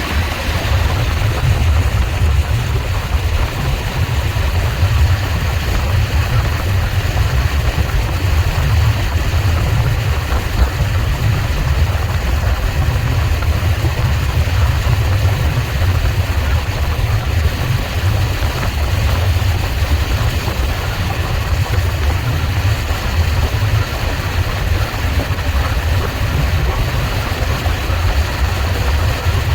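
Steady low rumble of a vehicle running, with an even hiss above it.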